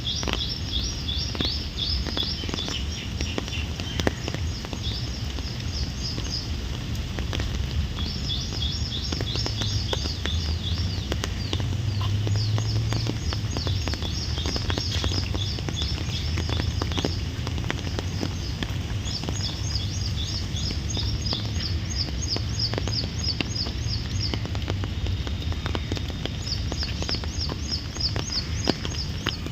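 Birds chirping in quick repeated trills, coming in bouts every few seconds, over a steady low outdoor rumble.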